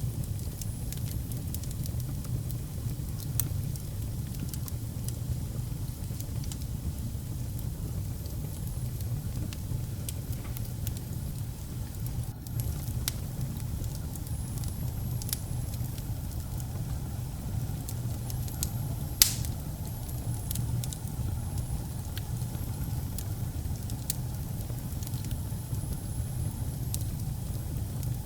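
Wood fire burning in a fireplace: a steady low rumble with scattered crackles and pops, one sharp pop louder than the rest about two-thirds of the way through, and faint high whistling in the middle.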